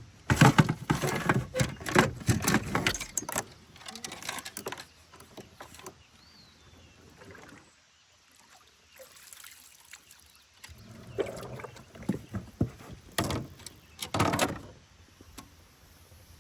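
Water splashing and knocking on and around a kayak, in two bouts: a busy stretch at the start and another toward the end, with a quieter spell between.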